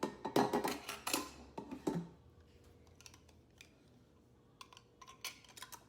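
Lids being put on and screwed down onto jars of pickles: a quick run of clicks and scraping for about two seconds, then a few scattered clicks near the end.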